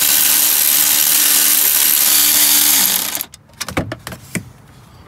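Cordless power tool running steadily for about three seconds while backing out an intake-manifold bolt, then stopping. A few light clicks follow.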